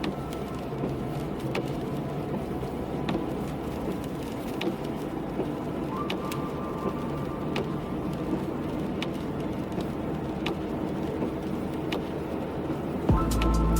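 Car driving in the rain: steady road and rain noise, with a faint sharp tick about every second and a half.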